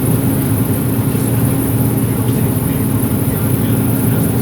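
Steady, loud low drone of running harvest machinery's engine.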